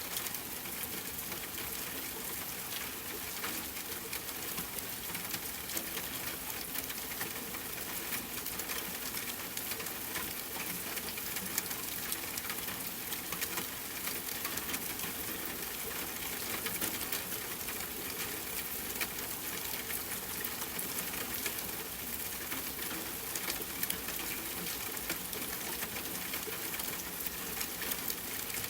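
Steady rain mixed with a crackling campfire: an even hiss dotted with many small, irregular ticks and pops.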